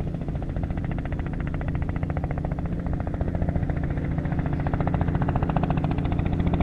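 Helicopter overhead, its rotor making a fast, even chop over a steady drone that grows slowly louder.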